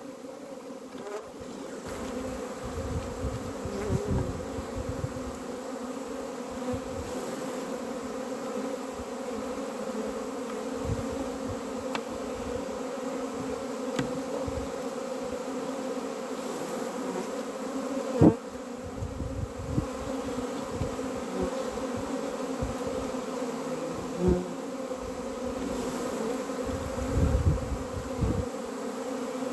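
A honeybee colony buzzing steadily at an open hive, a constant droning hum. A single sharp knock sounds about eighteen seconds in, with a few fainter clicks.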